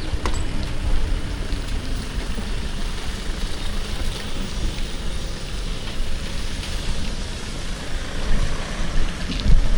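Steady street noise heard from a moving bicycle: a low rumble of wind and road with traffic around, and a short thump about nine and a half seconds in.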